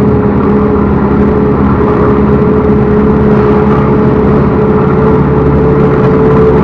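Backhoe loader's diesel engine running steadily under work, with a steady high tone over it that edges up slightly near the end.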